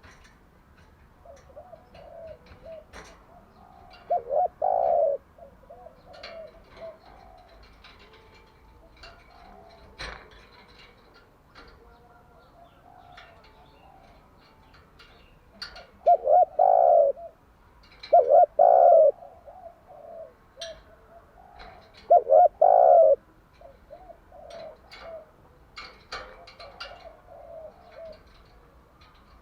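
Spotted dove cooing: soft low coos repeated throughout, broken by louder coo phrases about four seconds in, twice between sixteen and nineteen seconds, and once more around twenty-two seconds.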